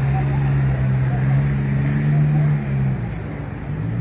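A road vehicle's engine running close by with a steady low hum, which drops away about three seconds in. Street traffic noise lies underneath.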